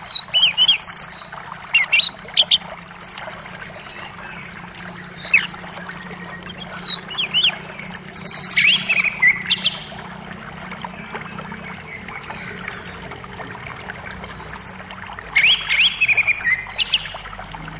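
Several songbirds chirping and calling, short high notes repeated every second or so, with a quick trill about eight seconds in and again near the end, over the steady rush of a forest creek.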